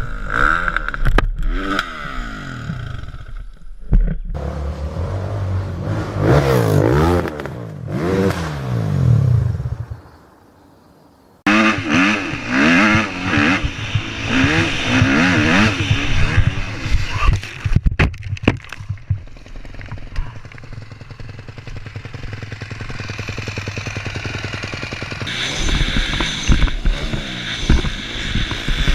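Motorcycle engines revving up and down over and over. The sound cuts off suddenly about ten seconds in, is almost silent for a second and a half, then the engines start again.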